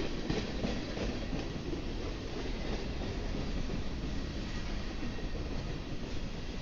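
Freight train rolling past, its steel wheels clicking over rail joints above a steady rumble; the clicking is densest in the first second or so.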